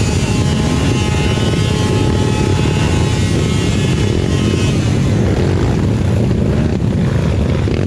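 Enduro dirt bike engine running steadily, with a heavy low rumble. A thin high whine over it fades out a few seconds in.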